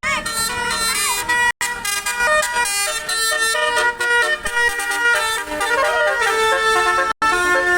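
Bus 'basuri' musical air horn (telolet horn) playing a stepping multi-note tune, loud, breaking off briefly twice.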